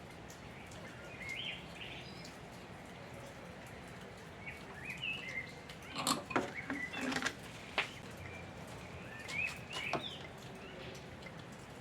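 Small birds chirping on and off over a low background hiss, with a cluster of sharp clicks and knocks around the middle and one or two more near the end.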